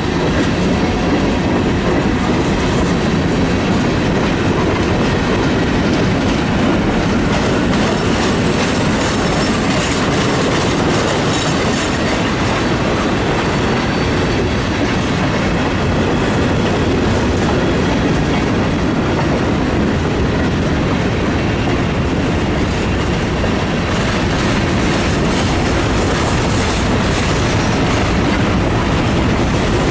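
Train cars rolling past, with steady wheel and rail noise and a clatter over the rail joints. A thin, high steady squeal sounds from about four seconds in until the last quarter.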